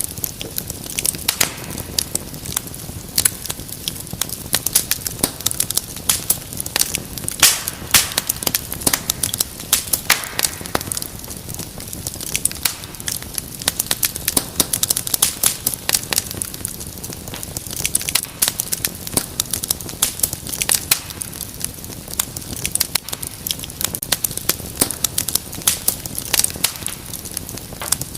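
Wood fire in a fireplace crackling steadily, with frequent irregular sharp pops and snaps over a low steady hiss.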